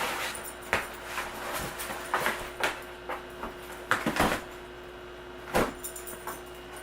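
Alaskan Malamute puppy tearing and chewing a cardboard box: irregular sharp rips and crunches, the loudest about two, four and five and a half seconds in.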